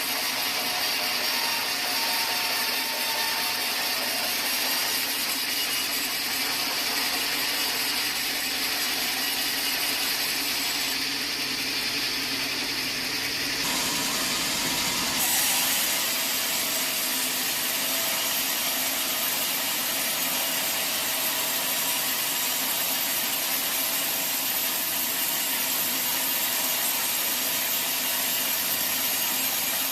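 Sawmill saw cutting through teak wood, a steady dense sawing noise that changes abruptly about halfway through.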